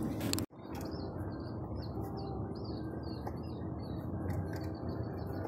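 Small birds chirping in short, repeated high calls over a steady low background hum, with a quick run of chirps near the end. The sound drops out completely for a moment about half a second in.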